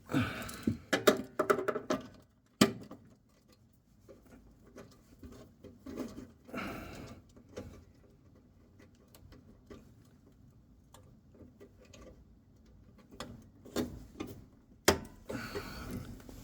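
Knocks and clicks of a metal sill end plate being handled and fitted to a Mazda MX-5's inner sill: a burst of knocks in the first two seconds, one sharp click just after, scattered light ticks, then a few more knocks near the end.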